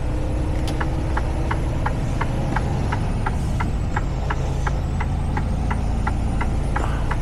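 Inside a semi-truck's cab, a steady low drone of the engine and road, with the turn-signal indicator ticking evenly about three times a second from about a second in.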